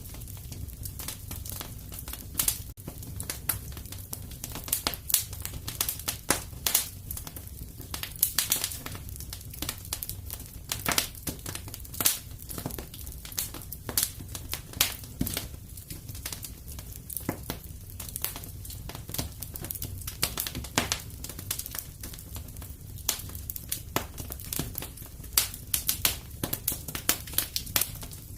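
Wood fire crackling in a fireplace: a steady low rumble of flame with frequent, irregular sharp pops and snaps.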